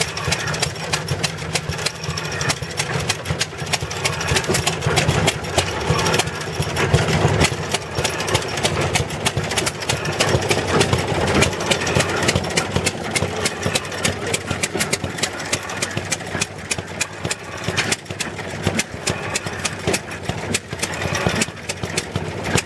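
Antique small gasoline engine running steadily, with rapid popping exhaust strokes.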